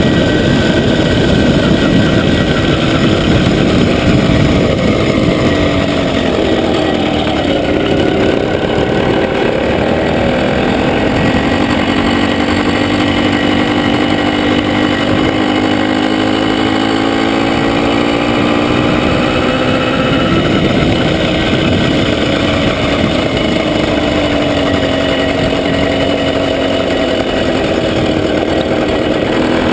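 Motorcycle engine running while riding, its pitch dropping and rising with the throttle over a steady rushing noise.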